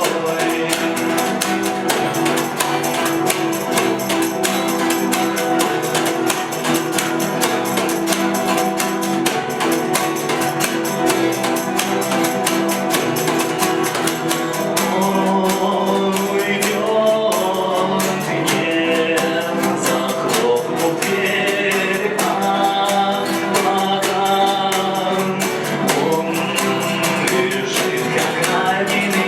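Live acoustic band playing a song: strummed and picked acoustic guitars over steady hand percussion, with a man singing, mostly in the second half.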